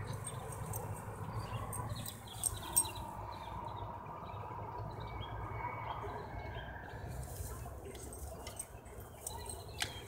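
Faint bird chirps over a low steady background hum, with two soft clicks about two and a half seconds in.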